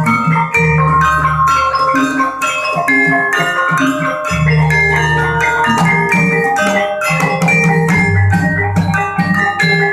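Gamelan music: rapid struck, ringing notes from metallophones over deeper sustained tones and drum beats.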